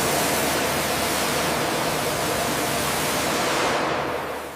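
High-pressure spray hissing steadily as the underside is cleaned, fading out near the end.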